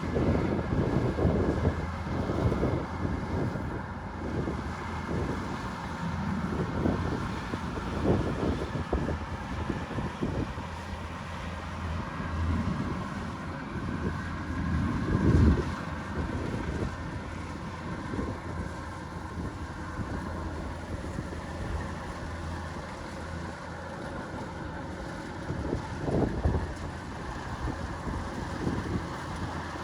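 Kubota DC-105X combine harvester running steadily with an even engine hum. Irregular low gusts of wind buffet the microphone, the strongest about 15 seconds in.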